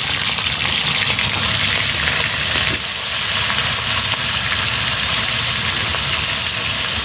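Crab pieces frying in hot oil in a kadai: a steady, loud sizzle with a low rumble underneath.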